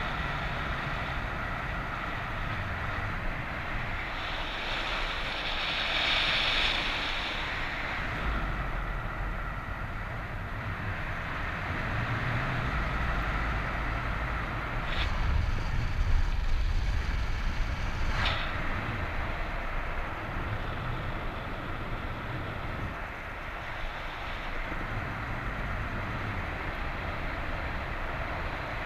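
Airflow rushing over the microphone during a paraglider flight in strong wind, a steady noise that swells and eases, with two short clicks in the second half.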